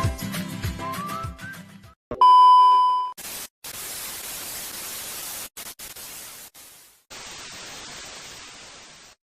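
Plucked-guitar background music ends about two seconds in. A loud steady beep tone follows for about a second, then a hiss of static noise that drops out briefly a few times over about six seconds and cuts off near the end.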